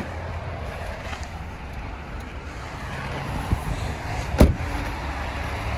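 Subaru Forester's 2.5-litre flat-four engine idling as a steady low rumble, with a small click about three and a half seconds in and a sharp knock a second later.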